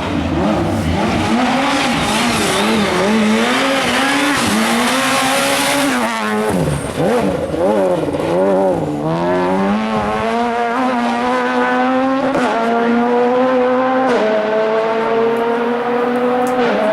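Rally car engine under hard driving: the revs swing up and down quickly through a corner in the middle, then climb steadily, dropping sharply twice at upshifts, one of them near the end. A hiss of tyres and loose surface runs under the engine early on.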